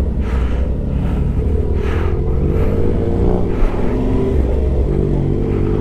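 Yamaha Ténéré 700's parallel-twin engine pulling away and accelerating, its pitch climbing and dropping back a few times as it changes up through the gears.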